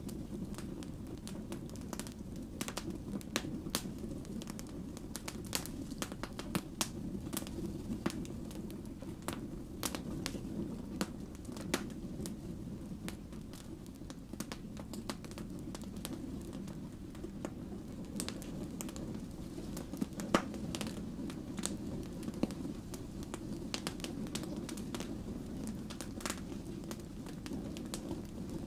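Wood fire burning with a steady low rumble of flames and irregular sharp crackles and pops from the logs, one louder pop about two-thirds of the way through.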